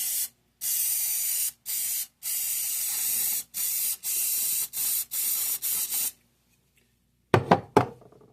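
Aerosol cooking spray hissing into a coffee cup in about seven bursts of varying length, greasing the cup so peanut butter will slide out. A few sharp knocks follow after a short pause near the end.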